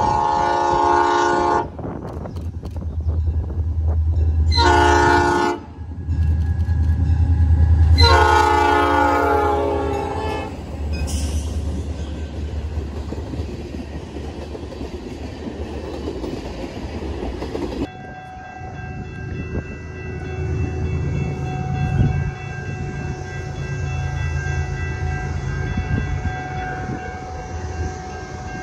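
Diesel freight locomotive's air horn sounds three times, the middle blast short, over the deep rumble of the locomotives approaching and passing, followed by tank cars rolling by on the rails. About eighteen seconds in, the sound changes abruptly to a quieter, steady rumble with faint high tones held underneath.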